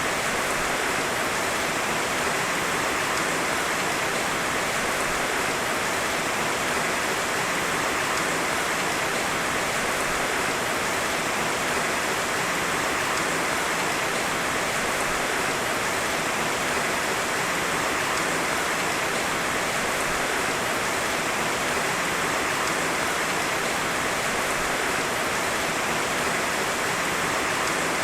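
Heavy rain falling steadily, an even, unbroken hiss of many drops with no separate impacts standing out.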